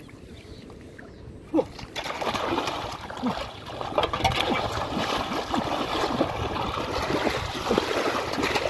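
Water splashing and sloshing in muddy shallow water as fish are caught by hand. A sharp splash comes about a second and a half in, and steady splashing follows from about two seconds.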